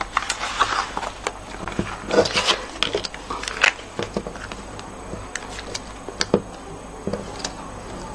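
Scattered light taps, clicks and rustles of small paper pieces and craft tools being handled on a work surface as die-cut paper snowflakes are picked up and stuck down.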